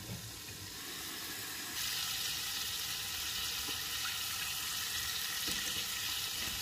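Pig feet deep-frying in hot oil in a cast iron skillet: a steady sizzle, softer at first under the glass lid, then louder and brighter from about two seconds in with the pan uncovered.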